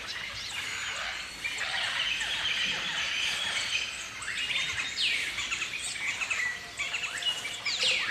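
A flock of galahs calling: many overlapping high chirps and short calls, with a few calls falling in pitch about five seconds in and again near the end.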